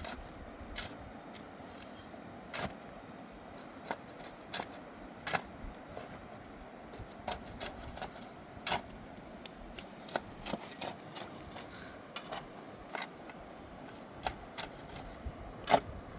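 Irregular sharp knocks and clicks, roughly one a second, over a faint steady hiss.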